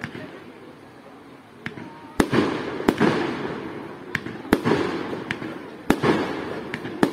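Aerial fireworks shells bursting: a quieter lull, then a run of about seven sharp bangs over the last five seconds, each followed by a rolling echo that dies away.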